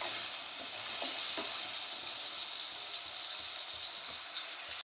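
Sliced arbi (taro root) frying in hot oil in an aluminium kadhai: a steady sizzle, with a few faint knocks of the spoon stirring in the first couple of seconds. The sound cuts off suddenly near the end.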